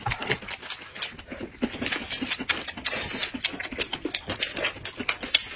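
Close-miked chewing of pancake wraps filled with lettuce and shredded potato: irregular crisp crunches and mouth clicks, several a second.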